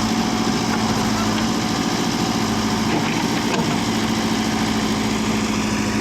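Tractor diesel engine running at a steady speed, an even low hum with no change in pitch.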